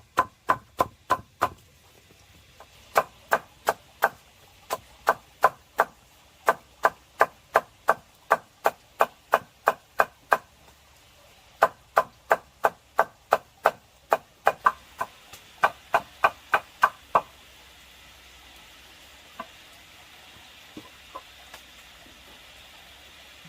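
Knife chopping on a wooden board in quick, even runs of about three strokes a second, stopping about three-quarters of the way through; a few faint clicks follow.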